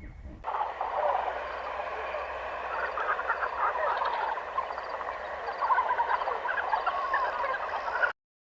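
A dense chorus of many animals calling at once, short overlapping calls with no pause, ending in an abrupt cut near the end.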